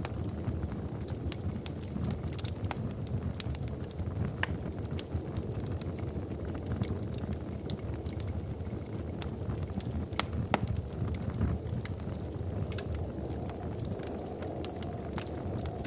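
Wood fire in a fireplace crackling: scattered sharp pops and snaps, several a second at irregular intervals, over a steady low rumble of burning.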